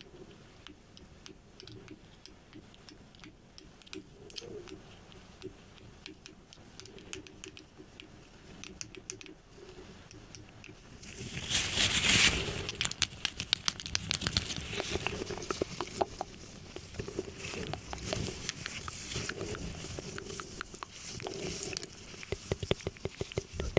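Close-miked ASMR trigger sounds: soft scattered tapping and clicking, then about halfway through a sudden loud rustling, crinkling noise followed by dense rapid crackling and clicking.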